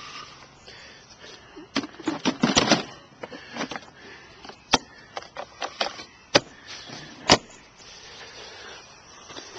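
Rustling clatter and several sharp plastic clicks and knocks as the heavy 24-volt battery is set into the WORX electric mower's battery compartment, plugged into its jack and the compartment lid shut.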